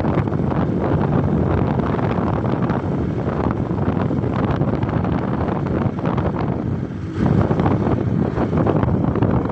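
Wind buffeting the microphone on a moving motorcycle, over the rumble of its engine and road noise, with a brief lull about seven seconds in.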